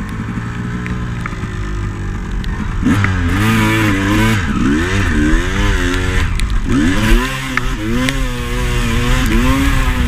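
Honda CR250 two-stroke dirt bike engine, ticking over steadily at first, then from about three seconds in revved again and again, its pitch rising and falling with each twist of the throttle as the bike pulls away under load up a muddy slope.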